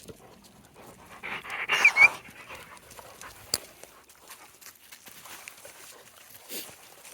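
A dog panting, with a louder burst of breathing and a short squeaky whine about a second and a half in, then quieter breathing.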